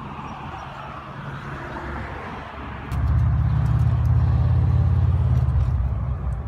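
Chevrolet Chevelle SS 396's V8 engine idling with a steady, low, pulsing exhaust note that gets much louder about three seconds in.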